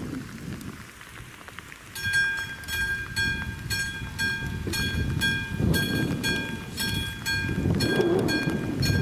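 A level crossing's classic AŽD 71 warning bell starts ringing about two seconds in, a rapid even run of metallic strikes that signals the crossing has been activated for an approaching train. A low rumble rises and falls underneath from about halfway.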